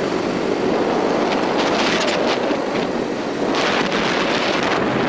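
Wind rushing over the microphone together with road noise from a moving vehicle, a steady dense rush that cuts off abruptly at the end.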